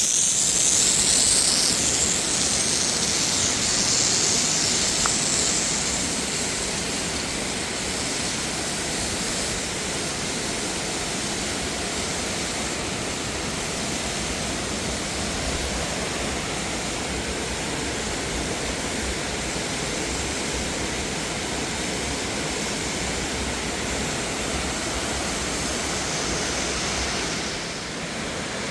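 Waterfall rushing steadily, a constant roar of falling water. For the first five seconds or so it is louder and hissier, then it settles to an even level.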